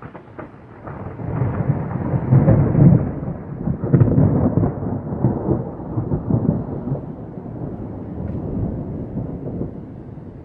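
Thunder rumbling close by: it swells over about two seconds, is loudest around three to four seconds in, then rolls on and slowly fades.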